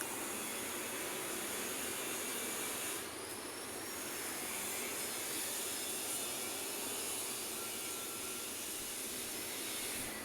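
Steady road traffic noise from vehicles passing on a busy city street, with a faint high whine gliding in pitch about three seconds in.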